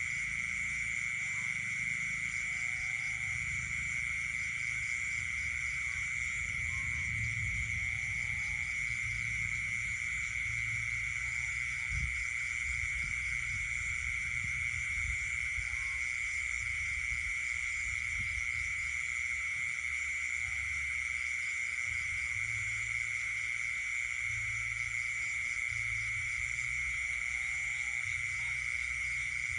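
Night chorus of frogs and insects: a steady, unbroken high trilling drone with faster pulsing trills above it, and faint short calls scattered through it, over a low rumble.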